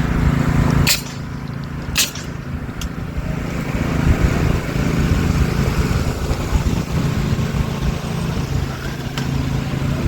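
Car engine running with a low hum, heard from inside the cabin, with a few sharp clicks in the first three seconds.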